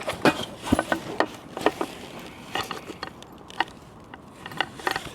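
Irregular clicks, knocks and rattles of camping gear being handled and packed, a dozen or so sharp hits at uneven spacing.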